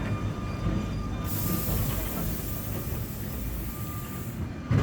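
Sóller electric tram running on its rails with a steady low rumble. A high hiss comes in about a second in and stops shortly before the end, and a single thump lands right at the end.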